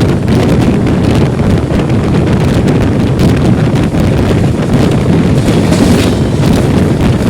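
Shantiniketan Superfast Express running: a loud, steady rumble of the moving train with wind buffeting the microphone.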